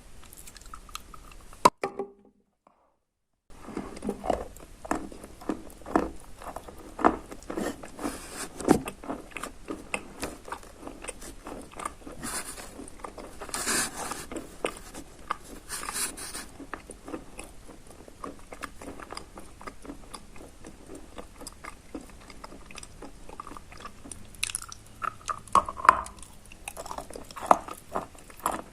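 Close biting and chewing of soaked eating chalk with dry chalk crumbs mixed in: a dense run of wet, crunchy crackles. The sound drops to dead silence for about a second and a half, about two seconds in.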